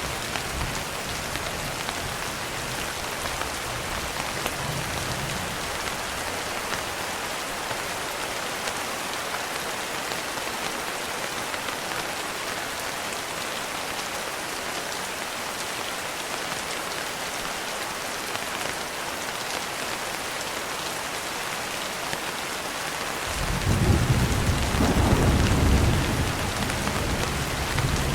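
Steady rain falling, with a faint low thunder rumble near the start. About 23 seconds in, a louder roll of thunder sets in suddenly and rumbles on to the end.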